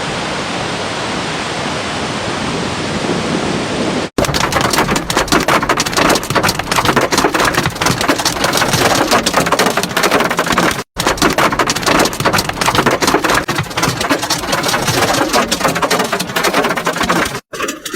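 Hailstorm with heavy rain: a steady, even roar for the first four seconds, then a dense rattle of hailstones striking hard surfaces. The sound breaks off sharply three times.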